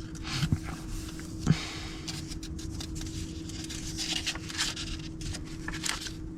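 Paper rustling and light taps as a paper planner is handled and its pages moved, over a faint steady hum.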